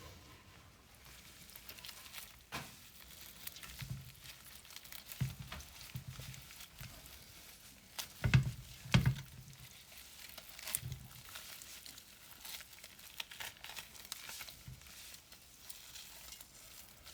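Close handling noises of cooked pork ribs being worked by hand: rustling, crinkling and tearing with scattered light clicks and soft knocks, and two louder thumps about eight and nine seconds in.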